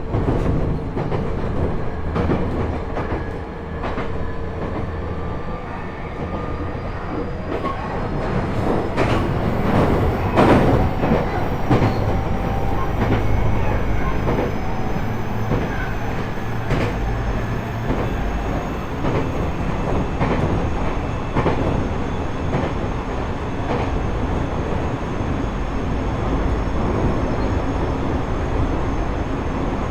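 Running sound inside a JR East E127-series motor car with a Toyo Denki GTO-VVVF inverter: the gear and traction-motor whine rises slowly in pitch as the train gathers speed, then levels off after about 20 seconds, over steady wheel and rail noise. A run of sharp clicks and knocks comes from the track between about 8 and 12 seconds in. This car's gear whine carries an abnormal extra note a semitone above the usual minor-seventh pair, the mark of a known noisy car.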